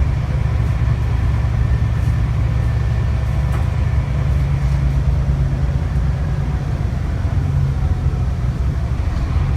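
Scania K360IB bus's five-cylinder diesel engine running steadily under way, a constant low rumble with road noise.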